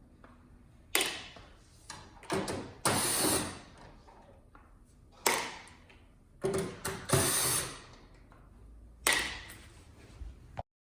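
Knocks, bumps and clatter from a plastic flat-screen TV being handled and worked on, several sharp hits a second or two apart. The sound cuts off suddenly near the end.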